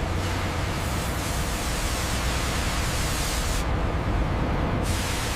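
High-pressure water jets blasting bark off logs: a steady, loud rushing hiss over a deep rumble. The highest part of the hiss drops out for about a second past the middle.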